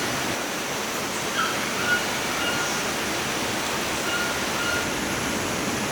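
Forest stream flowing, a steady rush of water, with short high chirps repeating faintly over it.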